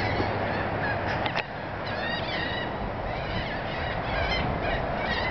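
Birds calling over steady background noise: many short, repeated calls overlapping throughout.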